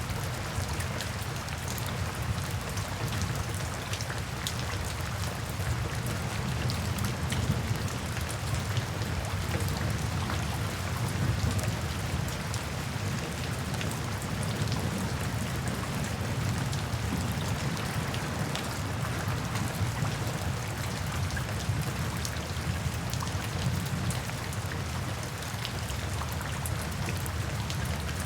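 Steady rain falling, with scattered short crackles and pops from a wood fire in a fireplace.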